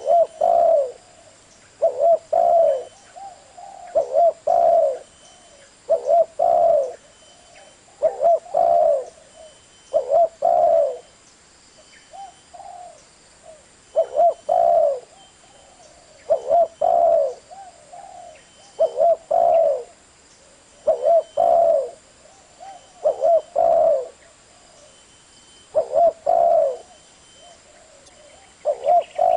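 Spotted dove cooing over and over, a short phrase of low rolling coos about every two seconds, with brief pauses between runs.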